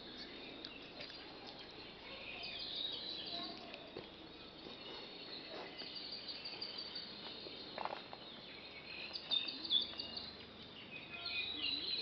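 Hawaiian rain-forest birds singing: many short, high-pitched chirps and calls that come in bursts, over a faint steady background hush.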